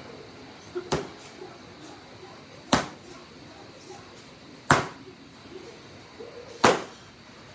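Four sharp smacks of karate strikes landing on a training target, spaced about two seconds apart.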